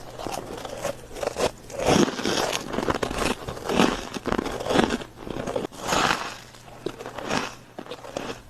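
Close-miked mouth biting and chewing white ice, crunching in repeated bursts, the strongest about two, four to five, six and seven and a half seconds in.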